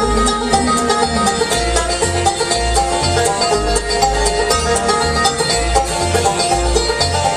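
Bluegrass band playing an instrumental break with no singing: quick rolling banjo picking stands out over guitar and a pulsing bass line, with some fiddle.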